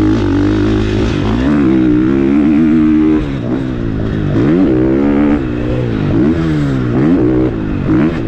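KTM 450SX-F's single-cylinder four-stroke motocross engine revving hard under load, its pitch repeatedly climbing and dropping as the throttle is rolled on and chopped, with quick off-throttle dips about once a second in the second half.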